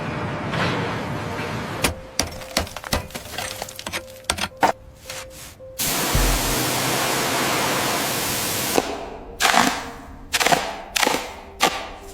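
Sound-effect clanks, cracks and knocks of metal being broken apart, then a hissing blast lasting about three seconds from about six seconds in, followed by several heavy ringing impacts.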